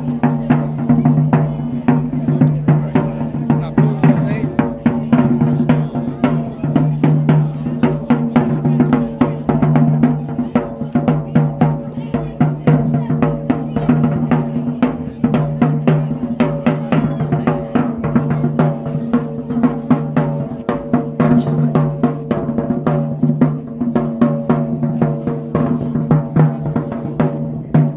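Live folk music: drums beating a fast, dense rhythm with snare-like rolls, over a steady held drone and a melody.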